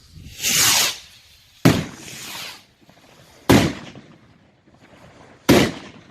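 Fireworks going off: a short hissing launch, then three sharp bangs about two seconds apart, the first bang followed by a brief hiss.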